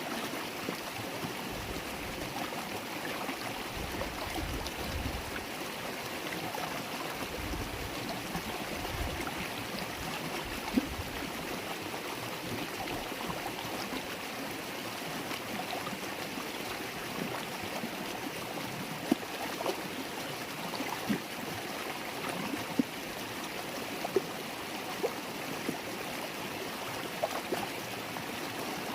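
River water babbling as a steady rush, with small splashes and plinks that stand out here and there through the second half. There is some low rumbling during the first several seconds.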